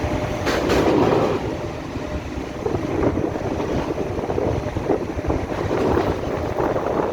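Wind buffeting the microphone in irregular gusts, loudest about a second in, over a continuous outdoor rumble.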